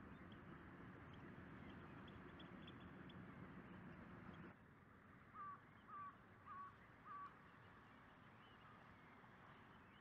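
A bird calls four times in an even series, about half a second apart, each call short with a small hooked rise in pitch, over faint outdoor hiss that drops a little before the calls begin.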